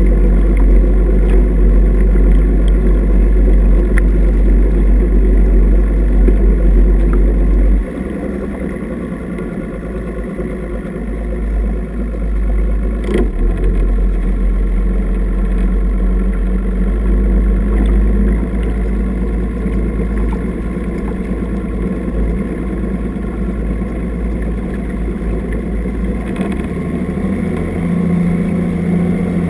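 Boat's outboard motor running steadily under way. The sound drops suddenly about eight seconds in, builds again a few seconds later, then holds.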